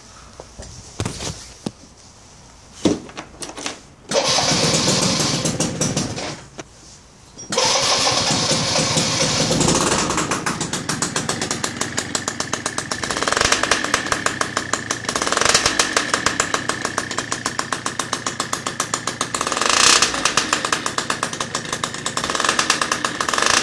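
Explorer GT Race 50 scooter's 50 cc two-stroke engine with a LeoVince TT expansion exhaust. After a few clicks it starts about four seconds in, dies after a couple of seconds, then starts again and idles with a pulsing beat, revved up briefly a few times.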